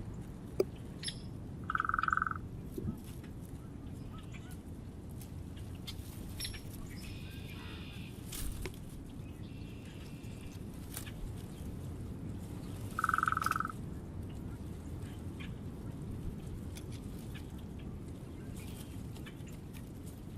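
Birds calling over a steady low outdoor background. Two short, identical mid-pitched calls about eleven seconds apart are the loudest sounds, with fainter, higher chirps in between.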